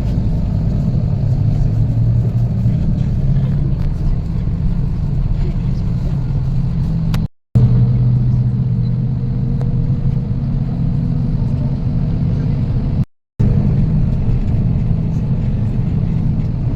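Bus engine and road rumble heard from inside the moving bus's cabin, a steady low drone. It drops out abruptly twice, briefly, where the clip is cut.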